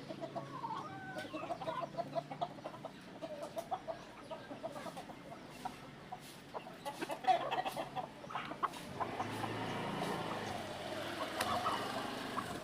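Chickens clucking, a run of short repeated calls throughout, with a denser stretch of calls near the end.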